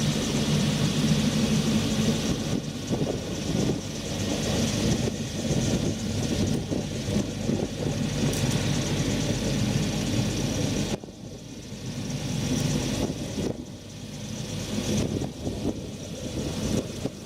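John Deere 4045HF four-cylinder turbo diesel of a Doosan G-60 60 kVA generator set running at a steady speed. About eleven seconds in, the sound drops sharply, leaving quieter, uneven noise.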